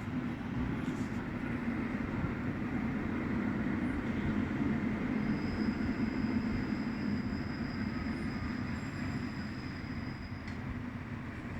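Vityaz-M tram running on the rails with a steady rumble; about five seconds in, a thin high-pitched squeal from the wheels on the curve sets in, holds for about five seconds and cuts off.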